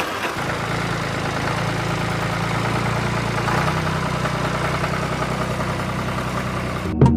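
Small engine running steadily with a mechanical rattle, its note shifting slightly about three and a half seconds in.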